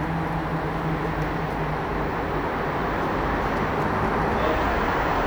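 BMW M5 F90's twin-turbocharged V8 running steadily, its note held at an even pitch and level.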